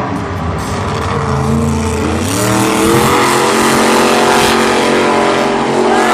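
Monster truck engines running hard at racing speed, their pitch climbing about two seconds in and then holding high.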